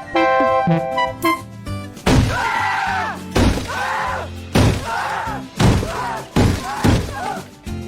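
Music with held notes, then a series of about six loud knocks roughly a second apart, each followed by a wavering pitched sound that rises and falls.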